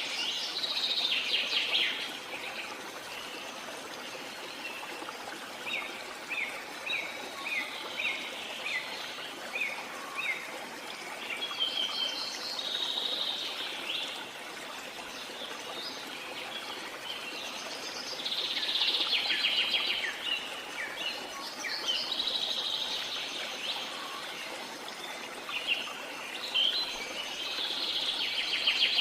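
Birds calling over a steady rush of running water: bursts of chirping that come and go, including a run of short repeated chirps about two a second.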